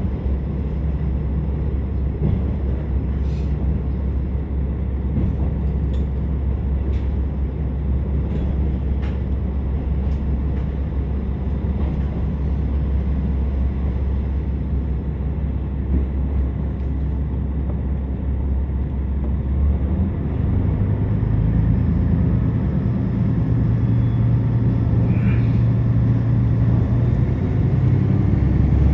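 Interior of a KiHa 47 diesel railcar under way: a steady low rumble of diesel engine and wheels on the track, with an occasional faint click. About twenty seconds in, the engine note becomes more pronounced and a little louder as the engine takes more power.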